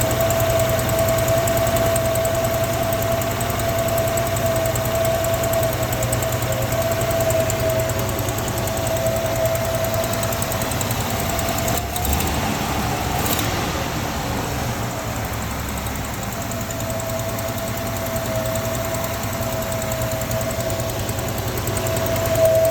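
AMC 199 straight-six engine idling steadily, with a steady higher tone over it that fades about halfway and returns near the end. The owner wonders whether the sound points to an exhaust leak.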